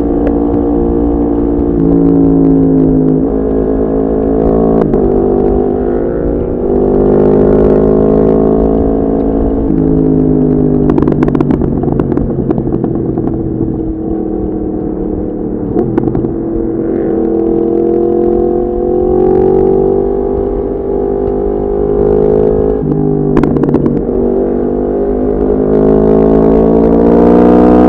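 Yamaha MT-10's crossplane inline-four engine through an Akrapovic exhaust under way. The revs climb and fall again and again, with sudden drops in pitch at the gear changes.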